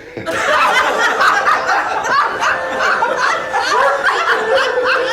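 Audience laughing at a joke's punchline, many voices together, breaking out about a third of a second in and going on steadily.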